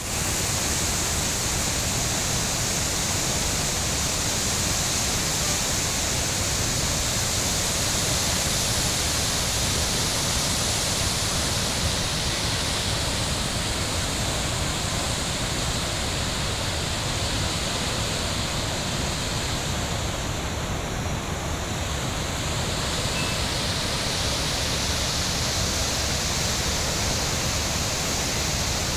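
Excess water pouring through the open sluice gates of a dam into the river below: a steady, loud rush of falling water that dulls briefly in its highest hiss about two-thirds of the way through.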